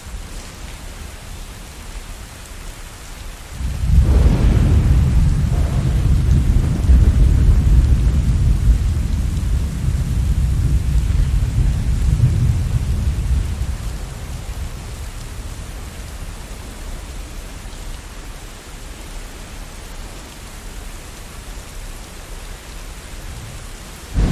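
Steady rain with a long roll of thunder that breaks in about four seconds in, rumbles low for some ten seconds and then fades away, leaving the rain alone.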